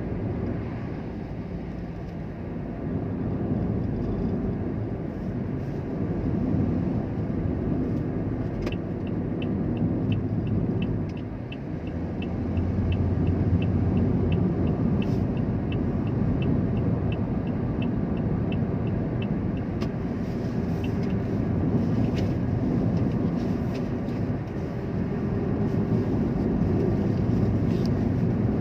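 Vehicle running with a steady low rumble. For about ten seconds in the middle comes a fast, regular ticking, about three ticks a second.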